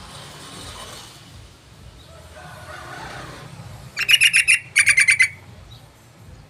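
Yellow-vented bulbul (trucukan) calling: two quick bursts of rapid chattering notes, one straight after the other, about four seconds in.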